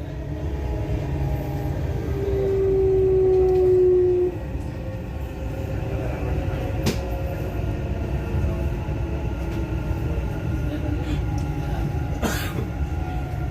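Dubai Metro Red Line train running, heard from inside the carriage: a steady low rumble with a motor whine that slides slightly down in pitch for about two seconds near the start, and a single sharp click about halfway through.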